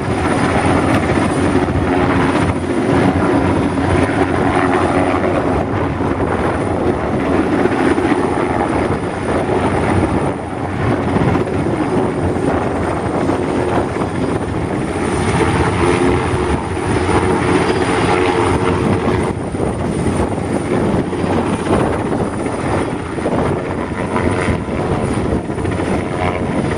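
A large machine running steadily with a loud whir and a thin, high, constant whine above it.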